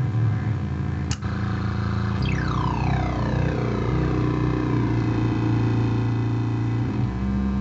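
Home-made kit oscillator noise box droning on steady low tones. About a second in a quick sweep shoots up in pitch. From about two seconds in, slow falling pitch glides sweep down over several seconds as the knobs are turned.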